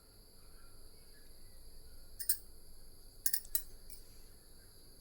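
Faint, steady high-pitched trilling of crickets, with a few short sharp clicks a little past two seconds and again around three and a half seconds in.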